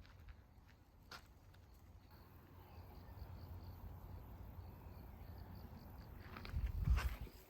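Insect chirping faintly in an even series of high pulses, about three a second, over a low rumble that swells loudly near the end.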